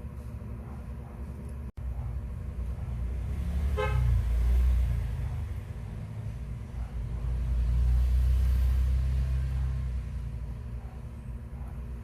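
Low rumble of passing road traffic that swells twice, with a brief horn toot just before the first swell.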